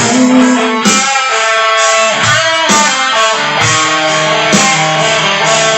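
Instrumental break of a rock song: guitar playing chords, struck about once a second.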